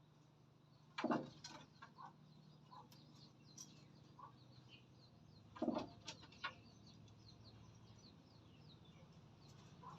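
Red junglefowl (wild chickens) clucking, with two louder calls about a second in and just past the middle and softer clucks between them. Faint high chirps of small birds run underneath.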